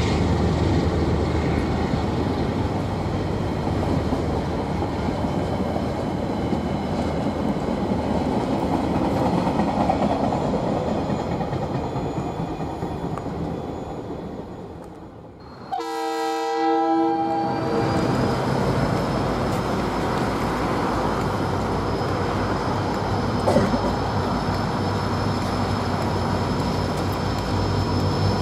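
Wagons of a KiwiRail freight train hauled by two DL-class diesel locomotives rolling past with steady wheel-and-rail noise that fades away. About halfway through it cuts to a short multi-tone diesel locomotive horn, followed by the steady rumble of an approaching locomotive-hauled train with a high thin whine.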